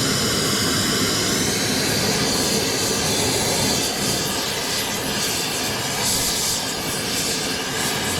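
A steady, loud rushing roar with a high whine running through it, like a running machine or burner.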